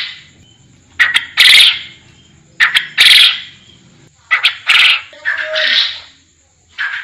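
Forest quail (puyuh hutan) calling repeatedly: each call is a short sharp note followed by a longer, louder rough note, coming about every one and a half seconds, four times.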